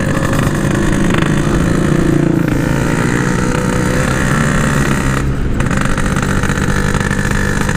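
Yamaha RX-King's ported two-stroke single-cylinder engine running steadily on the move. The rider says the bike is 'stuck' and not pulling.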